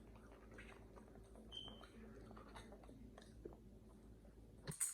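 Faint chewing with small wet mouth clicks over a low steady hum, and a sharper click near the end.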